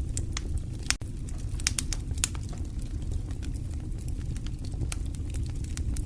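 Wood fire burning in a fireplace: a steady low rumble of flames with irregular sharp crackles and pops, a few louder pops between one and two and a half seconds in.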